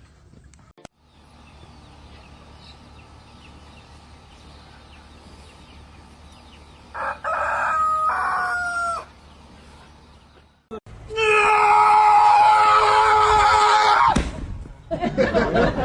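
Rooster crowing twice: a shorter crow about seven seconds in, then a long, loud crow about eleven seconds in.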